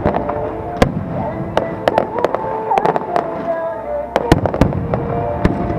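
Aerial fireworks going off in a string of sharp bangs, the loudest about four seconds in, over music with held notes.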